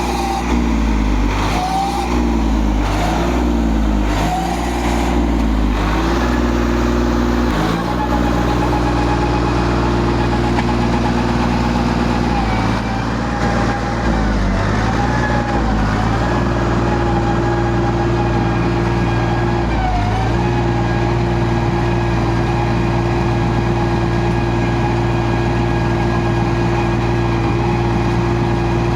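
New Holland tractor's diesel engine running, its pitch wavering up and down about once a second for the first few seconds, then holding a steady note.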